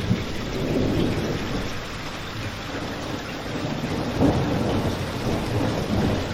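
Steady rain with a low rumble, and a crackling fireplace popping now and then, loudest about four seconds in.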